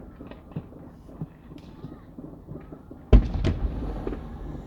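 A firework bang a little after three seconds in, followed quickly by a few sharp cracks, over a few faint distant pops.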